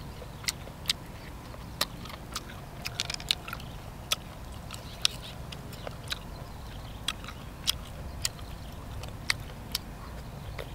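Close-miked eating of grilled octopus: chewing and biting, heard as irregular sharp mouth clicks and smacks, a couple a second, over a low steady rumble.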